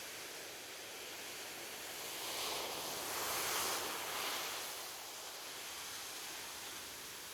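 Ocean surf on a beach: a steady wash of waves, with one wave swelling and breaking about three seconds in, then fading back.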